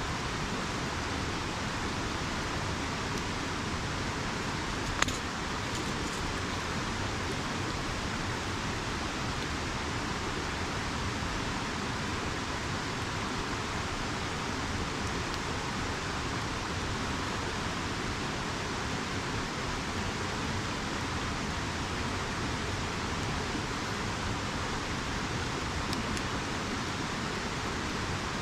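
Steady rushing of a river, with a single sharp pop from the wood campfire about five seconds in.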